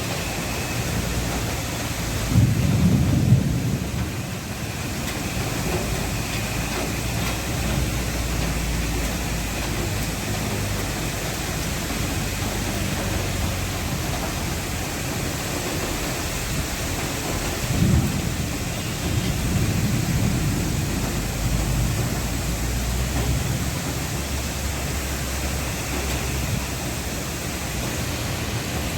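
Heavy rain falling steadily with rolls of thunder rumbling underneath, loudest a few seconds in and again a little past the middle.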